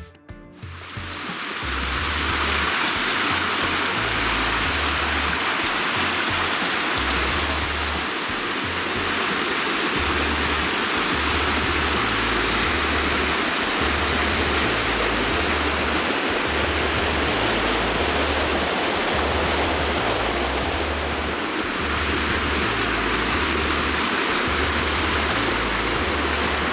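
Waterfall rushing steadily, starting about half a second in, with a low, regular bass beat underneath.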